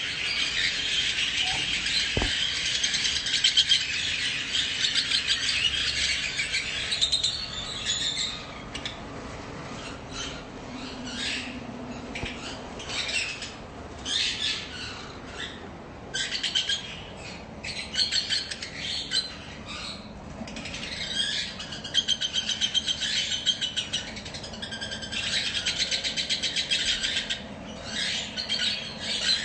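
A group of small birds chirping and twittering: a dense, continuous chatter for the first several seconds and again late on, with scattered single chirps in between.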